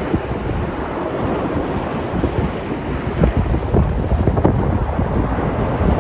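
Sea surf washing and breaking on the shore, with wind buffeting the microphone and adding a low rumble.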